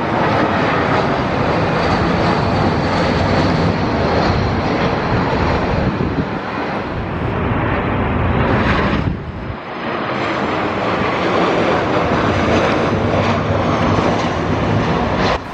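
Jet engines of an Airbus A320 airliner: loud, steady jet noise, with a brief drop in level about nine seconds in.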